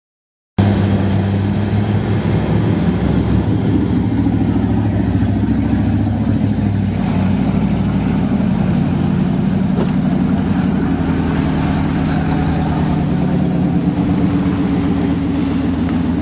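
Pickup truck's engine running steadily under load, starting after a half-second of silence.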